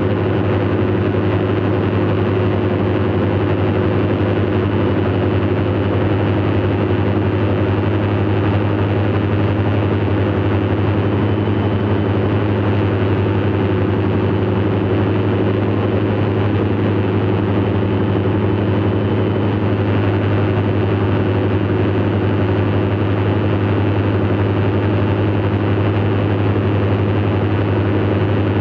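Light aircraft engine droning steadily in flight, holding an even pitch throughout.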